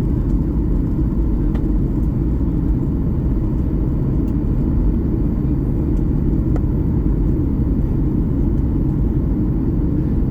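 Boeing 737 MAX-8 cabin noise heard from a window seat: a steady low rumble of the CFM LEAP-1B engines and rushing air. It stays even throughout, with a few faint ticks.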